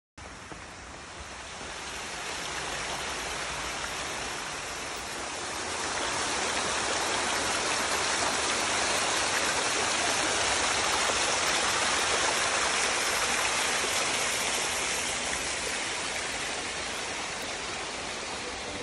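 Strong wind rushing, a steady roar that slowly swells louder through the middle and eases off again near the end.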